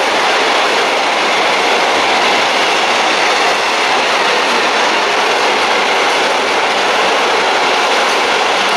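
A long train's wagons rolling past at speed: a steady, loud rush of steel wheels on the rails.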